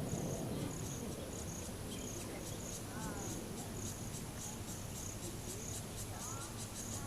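Insect chirping in a steady series of short, high-pitched pulses, about two a second, over a low background rumble.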